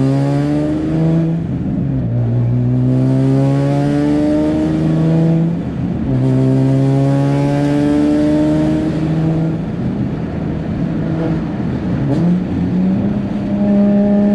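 Turbocharged Nissan 350Z's VQ35HR V6, heard from inside the car, accelerating through the gears: the engine note climbs steadily and then drops back at each upshift, several times over.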